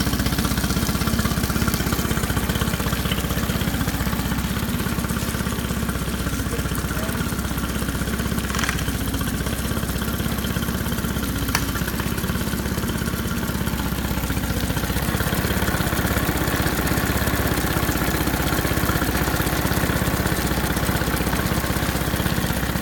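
Tohatsu 20 HP fuel-injected four-stroke outboard motor running steadily, with a couple of faint clicks; its sound gets a little brighter and louder about two-thirds of the way through.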